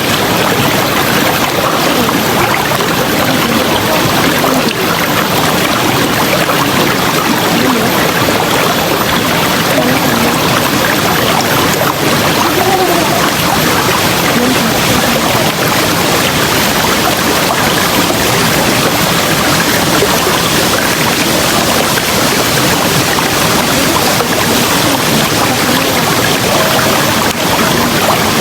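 River water rushing and splashing over rocks, a loud steady wash of noise with no pauses.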